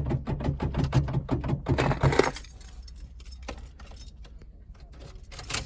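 Keys jangling: a quick run of small metallic clinks for about two seconds, then a few scattered clicks.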